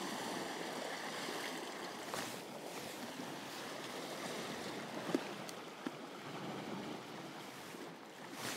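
Sea water washing against a rocky shore, a steady wash of waves, with a short sharp click about five seconds in.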